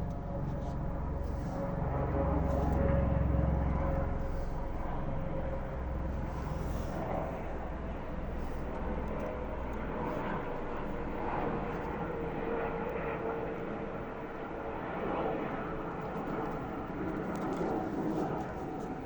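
Eurocopter EC120B Colibri helicopter flying past overhead. A low rotor beat is strongest in the first few seconds, then fades, under a steady whine that sinks slightly in pitch as it passes.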